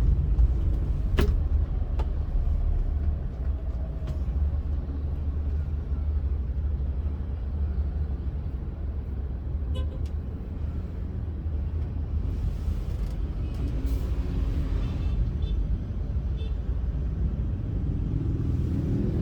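Steady low rumble of a car driving on a highway, with a few light clicks.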